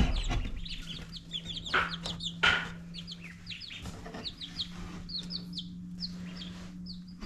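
Baby chicks peeping over and over in short, high chirps, with a couple of rustling scuffs and a faint steady hum behind.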